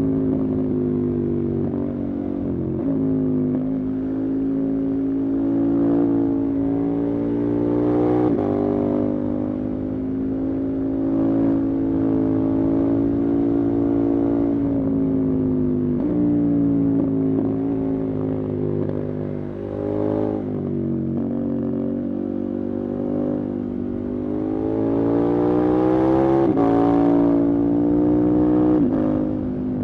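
Motorcycle engine running under way at a fairly steady pitch. The note breaks or dips briefly about five times, and climbs gradually before a drop near the end.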